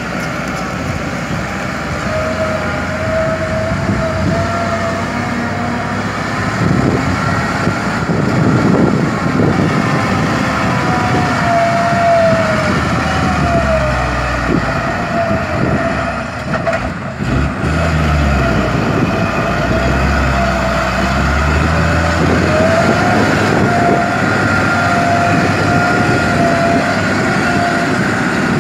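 Kobelco SK200 excavator's diesel engine and hydraulics working under load while digging and loading soil, with a wavering whine over a steady engine rumble. About halfway through, the engine note rises and falls several times.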